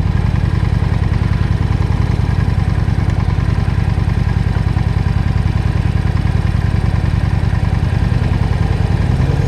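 Honda Shadow 750's V-twin engine running steadily at low revs, an even pulsing with no change in pitch.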